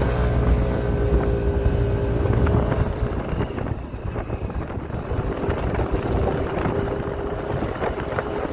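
Delivery motorcycle's engine running steadily while riding, with wind buffeting the microphone; it eases off and gets quieter about three seconds in.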